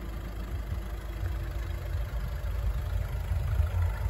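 Audi A3 S-Line hatchback engine idling with a steady low rumble.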